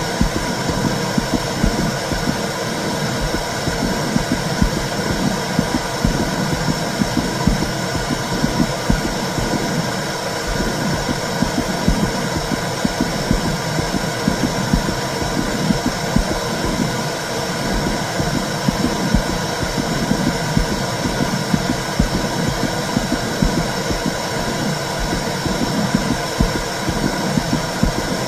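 Simulated womb sound played to soothe a baby: a steady low rumbling noise with a rapid, uneven pulsing in the bass, unbroken throughout.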